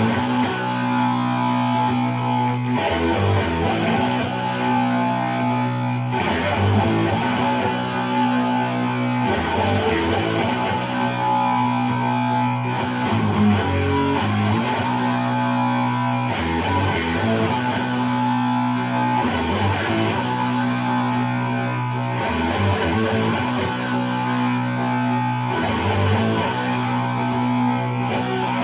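Electric guitar played through an HM-2-style heavy distortion pedal, with held, distorted chords changing every three seconds or so.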